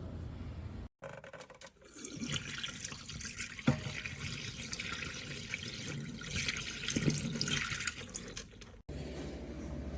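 Water running and splashing, with a sharp knock a little over a third of the way in. It starts and stops abruptly.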